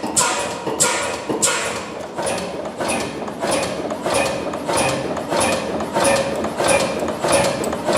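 Körting low-speed stationary diesel engine running, with a regular beat of sharp clacking strokes, a little under two a second, that quickens slightly partway through.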